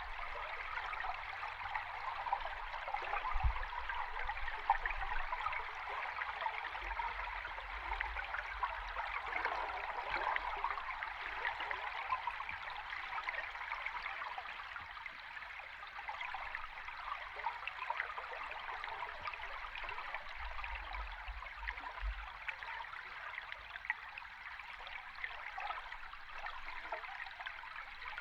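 Stream water heard underwater: a steady bubbling rush, with a few low thuds now and then.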